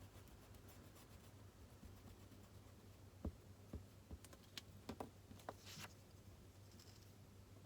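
Quiet desk sounds of studying: a few light taps of a pen on paper and desk and a short scratch of writing in the middle, over a faint steady hum of a quiet room.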